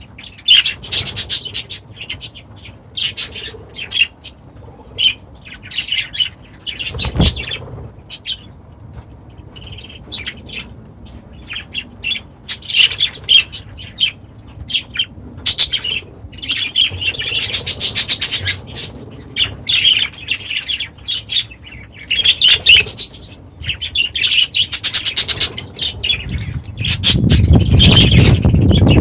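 Budgerigars chattering and chirping in short bursts, many birds at once. There is a single thump about seven seconds in, and a loud low rumble comes in near the end.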